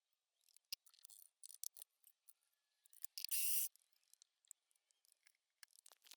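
Scattered light clicks and ticks of small tools and workpiece being handled at a milling machine, with one short burst of noise, about half a second long, a little after three seconds in.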